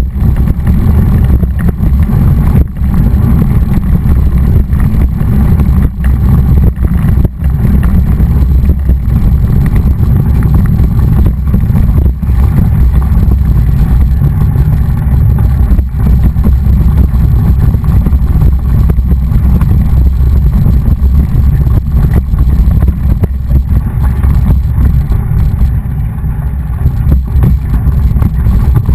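Wind buffeting the microphone of a camera riding on a moving mountain bike: a loud, steady low rumble, broken by scattered short knocks as the bike jolts over the ground.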